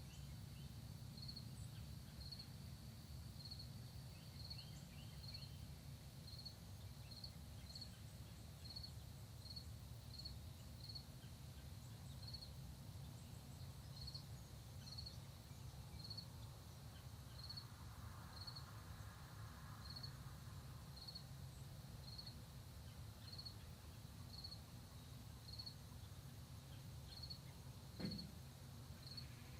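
Faint cricket chirping steadily, short high chirps at one pitch, roughly one or two a second, over a low steady rumble. A single sharp knock sounds near the end.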